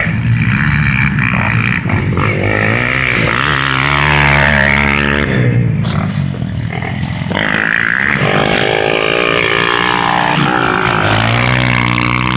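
Four-stroke trail motorbike engine revving hard, its pitch climbing and dropping several times as the throttle opens and closes.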